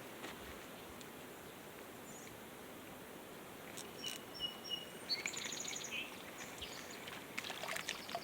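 Small birds chirping and trilling about halfway through, over the steady hiss of a running creek.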